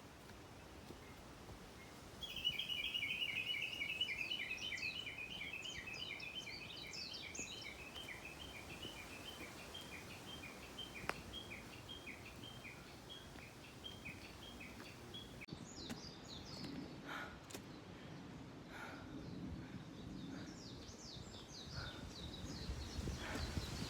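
A bird calling in a long, rapid run of repeated chirping notes that starts about two seconds in and fades over some ten seconds; later, more high chirps with a few light knocks.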